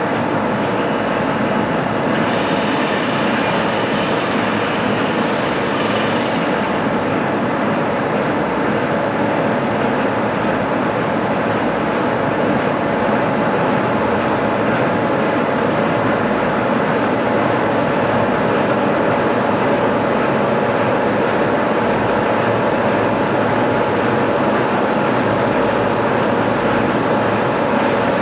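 A metalworking machine tool running steadily while machining a steel part: a continuous mechanical noise with a few steady tones and no pauses.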